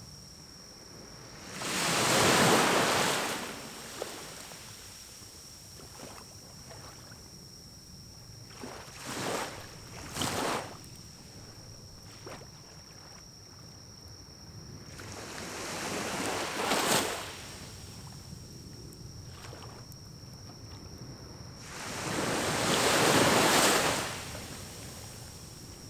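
Air blown through a pocket bellows blow pipe into a pine-cone fire in a small wood-burning stove: three long whooshes of about two seconds each, a few seconds in, past the middle and near the end, with a couple of short puffs or pops around the middle.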